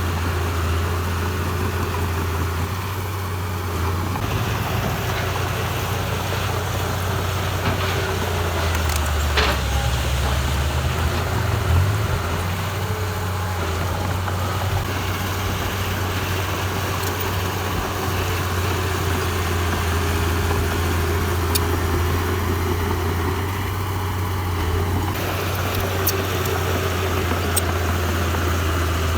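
Heavy-equipment diesel engine running steadily with a low drone, and a couple of sharp knocks near the middle.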